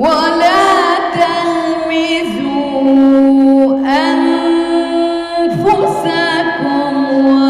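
A woman reciting the Quran in melodic tajweed style, with long held notes and ornamented turns in pitch. Her voice starts abruptly after a pause and breaks briefly between phrases.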